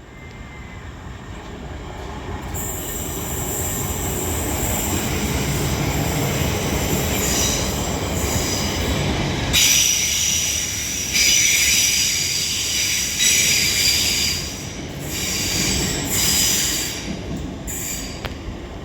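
TransPennine Express Class 802 train passing through a station, growing louder over the first few seconds. High-pitched wheel squeal comes and goes, strongest from about ten seconds in, and the train eases off near the end.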